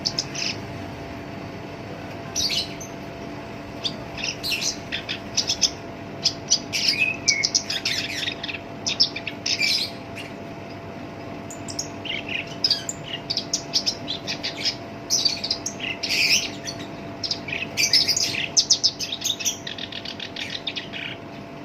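Black-browed reed warbler singing a long run of quick, harsh, scratchy phrases of rapid notes, with short pauses between phrases. A faint steady hum lies underneath.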